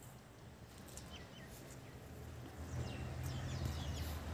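Small birds chirping in short calls that fall in pitch, over a low rumble that grows louder about two-thirds of the way through.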